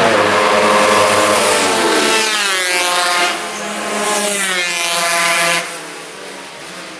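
Racing motorcycle engines at full throttle passing close by. The engine note climbs twice, then the sound drops away about five and a half seconds in.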